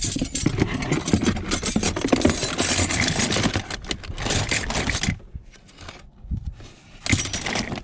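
Stainless steel kitchen utensils clattering and scraping against one another as they are handled and piled together, for about five seconds, then a shorter clatter near the end.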